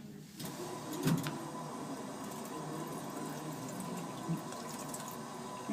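Drinking fountain running, a steady stream of water splashing that starts about half a second in.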